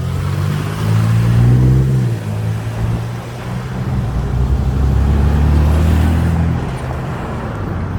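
Motor vehicle engines passing close by, a deep hum that swells about a second in and again from about four to six and a half seconds in, over steady road and wind noise.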